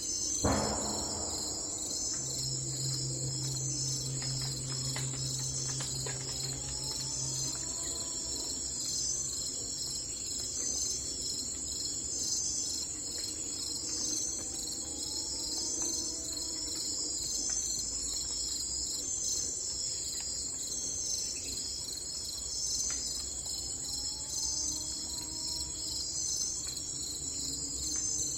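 Steady insect chorus, a dense pulsing high trill of the cricket kind. A soft low call rises and falls about every eight seconds, and a single sharp click sounds about half a second in.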